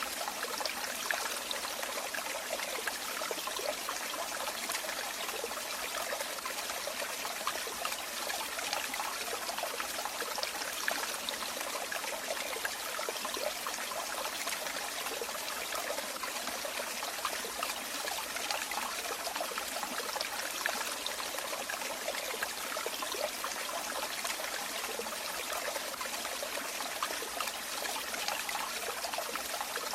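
Running water flowing and trickling steadily, a constant splashing hiss with no change in level.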